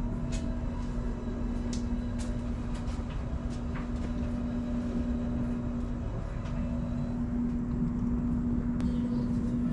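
A steady mechanical hum: a low rumble carrying one constant tone, with a few light clicks over it.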